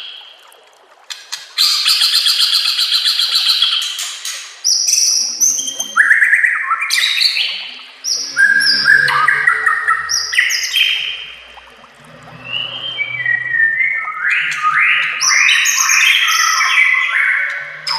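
White-rumped shama (murai batu) singing a varied song: a fast buzzy rattle, then a string of clear whistled phrases that slide up and down, broken by short pauses.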